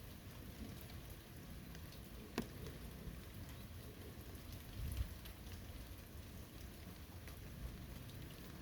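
Steady rain falling on a forest, with scattered drops ticking and one sharper drip about two and a half seconds in. A brief low rumble comes about five seconds in.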